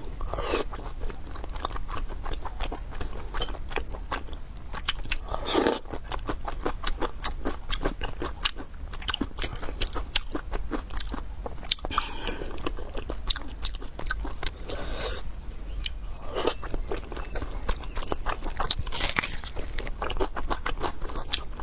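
Close-miked chewing of soft, glazed braised pork belly: a steady run of small wet mouth clicks and smacks, with a louder mouthful every few seconds.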